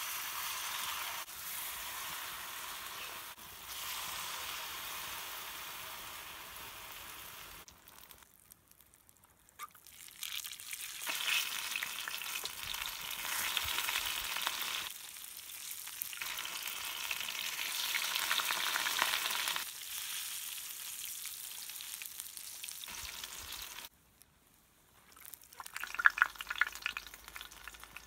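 Wheat-flour fritter batter sizzling as it fries in hot oil in a small pan, a steady hiss that stops and restarts twice. Near the end a louder, sharper crackle and spatter as a fritter is lifted out of the oil on a metal spoon.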